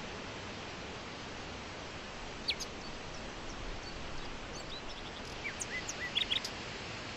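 Small birds chirping over a steady hiss: one sharp downward chirp about two and a half seconds in, then a quick run of short chirps near the end.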